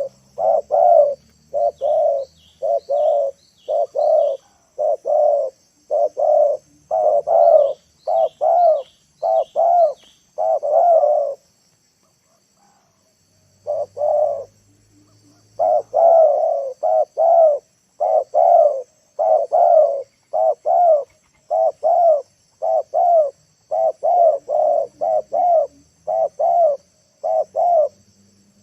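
Spotted dove (tekukur) cooing over and over in long repeated phrases, with a short pause about halfway through: a lure dove calling to draw wild doves down. Two short runs of faint, high chirps from a small bird come in the first third.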